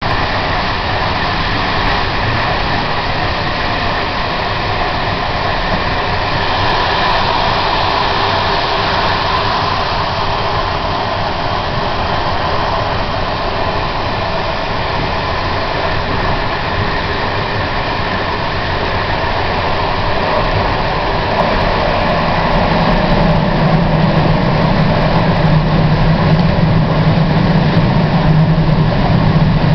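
Prague Metro train running, a steady loud rumble and rail noise. A low hum comes up and grows louder about two-thirds of the way through.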